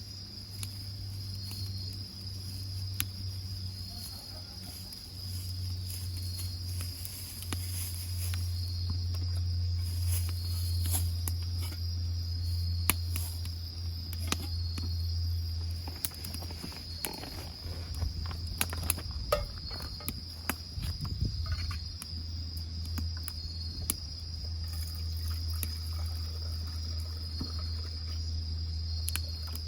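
Insects trilling steadily on one high note, with a fainter chirp repeating about once a second, over a low hum. Scattered sharp pops throughout, typical of a wood fire crackling.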